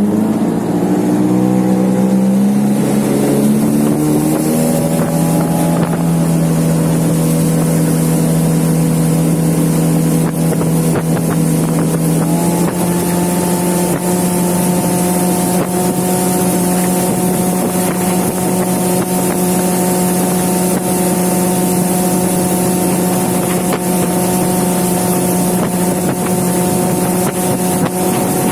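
Hidea 9.9-15 outboard motor driving a small boat at full throttle through an acceleration run. The engine note climbs quickly at the start, holds steady, then steps up to a higher steady pitch about twelve seconds in as the boat gathers speed. Wind buffets the microphone.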